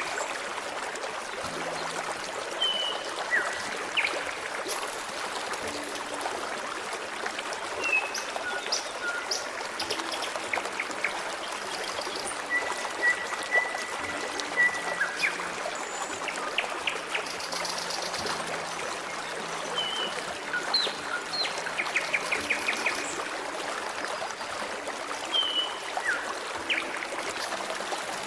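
Forest stream trickling and flowing steadily, with songbirds chirping over it now and then, including a few short rapid trills.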